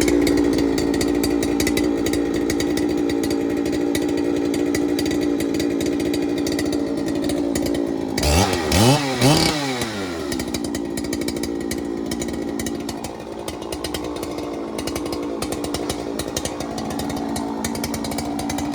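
Two-stroke chainsaw running at a steady high speed, with the throttle revved up and down twice about eight seconds in.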